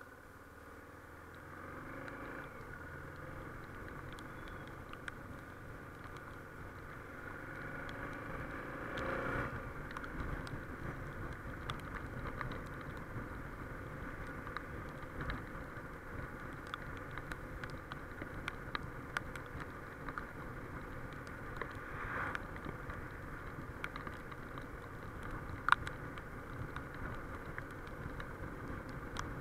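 Suzuki XF650 Freewind's single-cylinder engine running under acceleration, its pitch rising about two seconds in and again near nine seconds, over steady wind and tyre noise on a wet road. Scattered sharp ticks.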